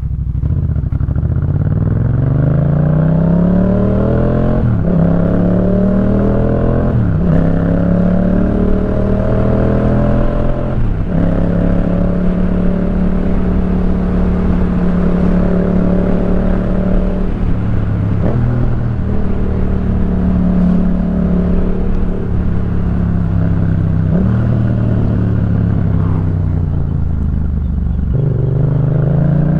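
2018 Yamaha MT-07's 689 cc parallel-twin engine through a Jeskap K4 full aftermarket exhaust, accelerating up through the gears. Its pitch climbs and drops sharply at each shift, about 5, 7 and 11 seconds in. It then holds a steady cruise, with brief throttle dips later on, and pulls up again near the end.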